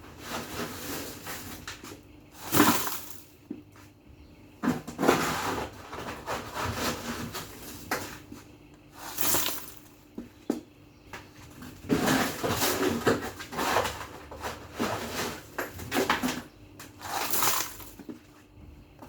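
Household items being handled during cleaning: irregular rustling and shuffling with occasional light knocks and clinks.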